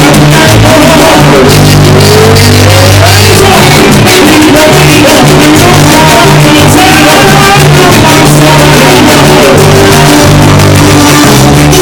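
Live band playing loud Latin music, with a singer's voice over a bass line and busy percussion.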